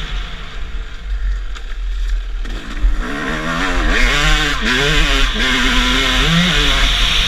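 Motocross bike engines running and revving, louder from about three seconds in, the engine pitch rising and falling as the riders work the throttle.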